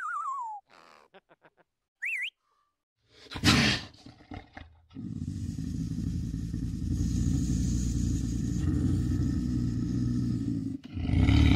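A short whistled bird call falling in pitch at the start, with a few faint clicks after it. Then a serval's low, continuous growl sets in about three seconds in, with a loud onset and a louder burst near the end.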